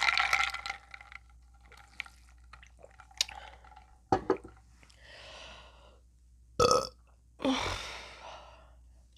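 A woman burping several times after a big meal, short separate burps with the loudest about two-thirds of the way through.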